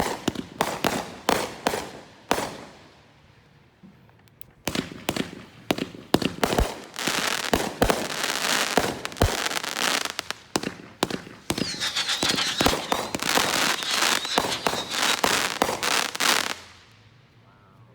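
Consumer fireworks going off in rapid succession: a quick run of sharp bangs, a short lull, then more bangs building into a long dense stretch of crackling. A thin high whistle rides over it for a few seconds, and it all stops shortly before the end.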